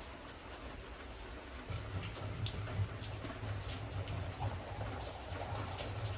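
RV antifreeze being poured into a camper's shower drain: liquid splashing and gurgling, starting a little under two seconds in.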